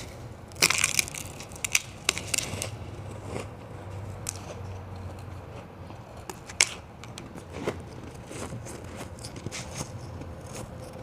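White ice being bitten and crunched between the teeth. A loud cluster of crunches comes about half a second in, followed by scattered single crunches and crackles.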